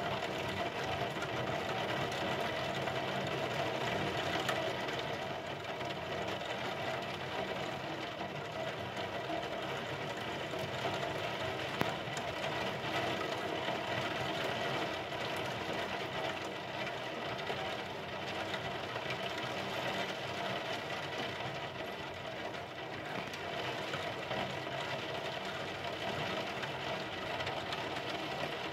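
Heavy thunderstorm rain falling steadily, a dense even patter of drops with no hail in it.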